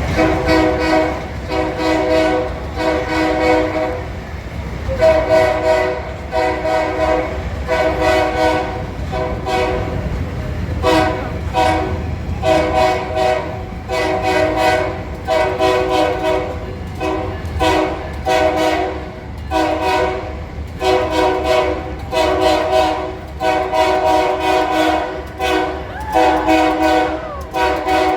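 A locomotive's multi-tone air horn sounding a long run of short and medium blasts, one after another with brief gaps, over the low rumble of the train.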